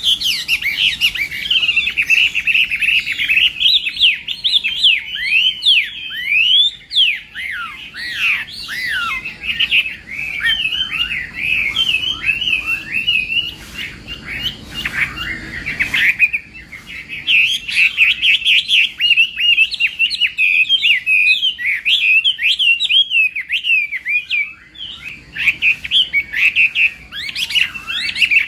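Chinese hwamei (hoạ mi) singing a long, nearly unbroken song of rapid, varied whistled notes that slide up and down, with a few brief pauses.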